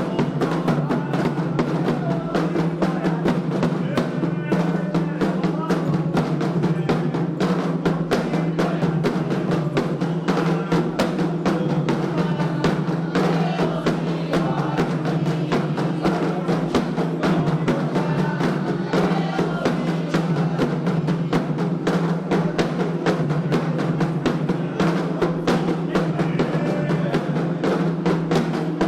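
Candomblé ritual drumming on atabaque hand drums: a fast, unbroken rhythm of dense drum strokes.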